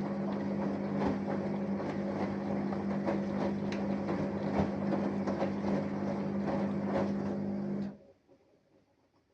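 Samsung Eco Bubble washing machine's inverter motor turning the drum during a wash, a steady hum with irregular clicks and knocks from the tumbling load. It stops suddenly about eight seconds in.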